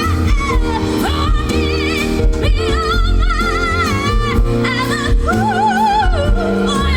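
Live band playing a slow soul ballad while a female singer sings wordless runs, holding and sliding between notes with wide vibrato.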